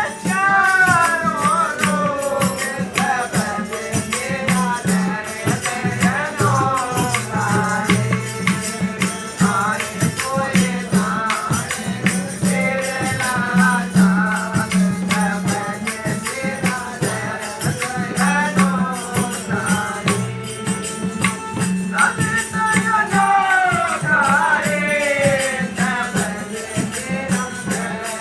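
Devotional bhajan singing: one lead voice carries a bending, ornamented melody over a steady low drone, with a shaken rattling percussion keeping an even beat.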